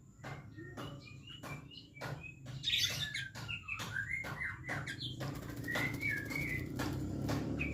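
Oriental magpie-robin giving short chirping calls, over a run of sharp clicks and flutters that comes faster in the second half, the sound of a bird bathing and flapping.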